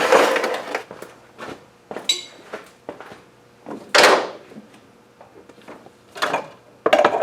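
Metal hand tools being handled and set down, clanking and knocking in separate bursts, with a short metallic ring about two seconds in and the loudest clank about four seconds in.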